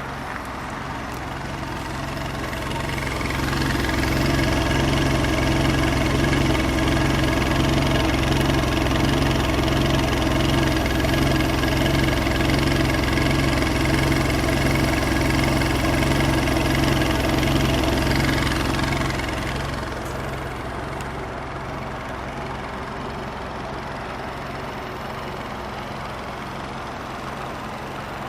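2013 Nissan Juke Nismo's 1.6-litre turbocharged four-cylinder engine idling steadily. The sound swells louder and fuller from about three seconds in, holds, then drops back to the plain idle about nineteen seconds in.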